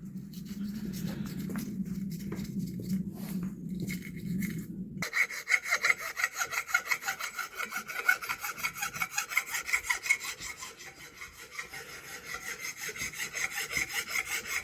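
Hand file rasping back and forth across a metal flange face to smooth a rough spot left by a chisel. A duller, lower rubbing sound gives way abruptly about five seconds in to quick, evenly repeated file strokes.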